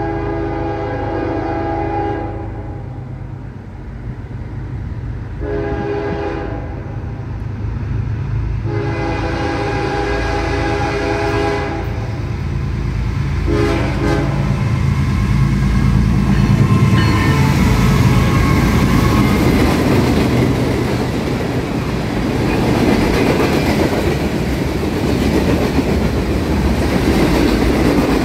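Norfolk Southern freight locomotive horn sounding four blasts, the third the longest and the last short, over the low rumble of the diesel locomotives approaching. After the horn stops the locomotives pass, and the freight cars roll by with a steady, growing rumble and clatter of wheels on rail joints.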